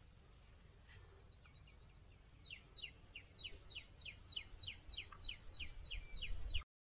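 A bird calling in a rapid series of sharp, falling chirps, about three or four a second and growing louder, starting a couple of seconds in and cut off suddenly near the end. A low steady rumble lies under it.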